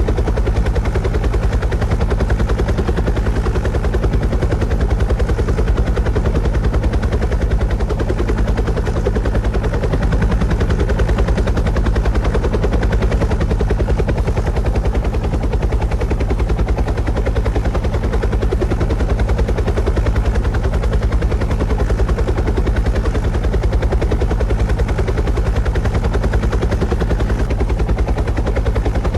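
Helicopter rotor sound: steady, rapid blade chop with a deep drone, unchanging in level throughout.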